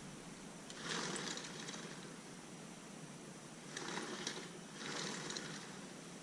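Three brief bursts of scraping, mechanical handling noise from hand work on a dirt bike's wheel, about a second in, about four seconds in and again just after.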